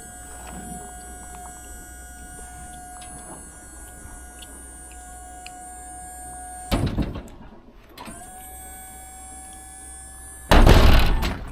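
A small electric motor whines steadily, stops with a brief clatter, then runs again slightly higher. Near the end there is a loud, short rush of noise.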